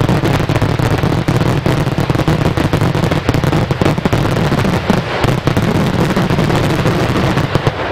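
A fireworks display firing a dense barrage of bursts and crackling shells, many bangs a second, that stops just before the end.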